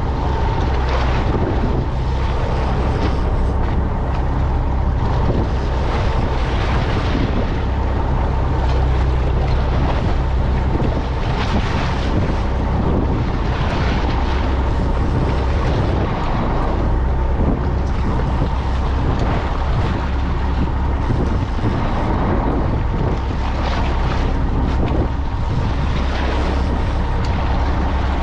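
A fishing boat's engine running steadily, with wind buffeting the microphone in gusts over the rush of the hull through the water.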